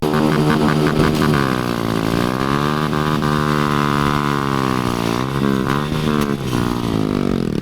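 A car engine at full throttle accelerating down a drag strip, its pitch falling and climbing again several times as it changes gear.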